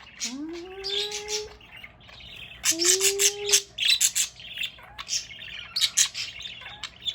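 Pet budgies chattering and warbling: a rapid, continuous run of high chirps and clicks, with two rising, lower-pitched drawn-out tones in the first half.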